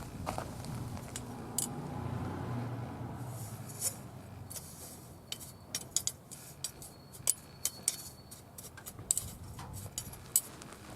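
Oak twigs burning in a mesh fire stand, crackling with scattered sharp pops and a low rumble in the first few seconds. The wood is not fully dry.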